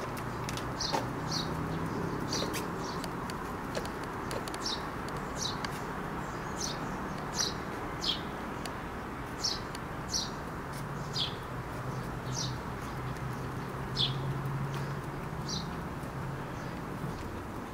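A small bird repeating a short, high chirp that drops in pitch, roughly once a second, over a low steady hum.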